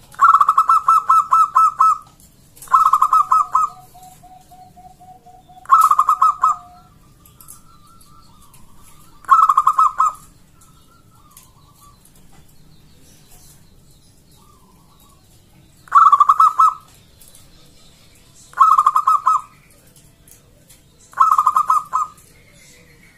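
Zebra dove (perkutut) singing: seven bouts of rapid staccato cooing, each about a second long, with pauses of a few seconds between them. Fainter, lower cooing is heard in some of the gaps.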